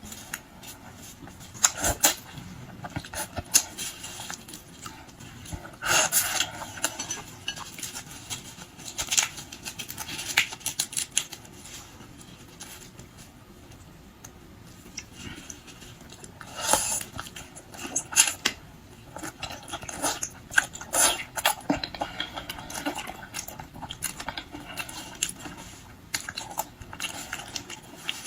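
Close-miked eating: irregular chewing sounds with sharp clicks and crunches of shrimp being bitten and chewed, scattered through with pauses.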